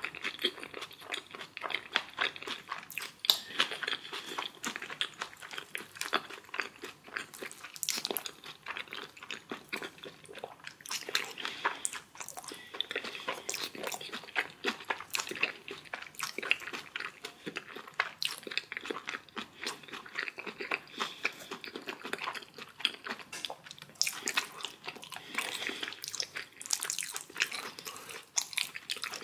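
Close-miked chewing and biting: a person eating steamed dumplings and kimchi, with many irregular crunchy bites and mouth clicks.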